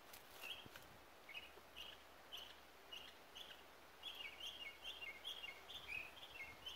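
Small songbird calling: a series of short, high chirps, about two a second, that quicken after about four seconds into a rapid run of two-part notes, each stepping down in pitch.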